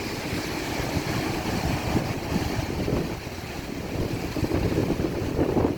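Sea waves washing on a beach, with wind buffeting the microphone in uneven gusts that grow stronger near the end.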